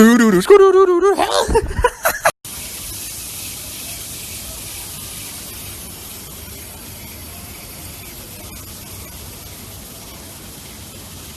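A voice sings for about two seconds and cuts off abruptly. A steady, even hiss follows for the rest, fading slightly toward the end.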